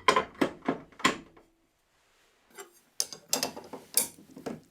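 Metal clicks and clanks of a table saw blade being changed: the arbor nut being worked and a flat-tooth grooving blade being handled. The knocks come in two quick bursts with a pause of about a second and a half between them.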